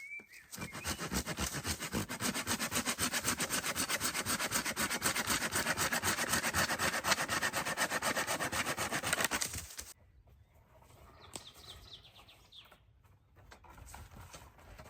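Hand saw cutting through wood with fast, even back-and-forth strokes for about nine seconds, then stopping abruptly; faint small sounds follow.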